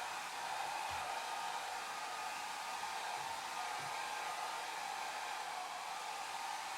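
Hair dryer running steadily: an even, unbroken rush of blown air.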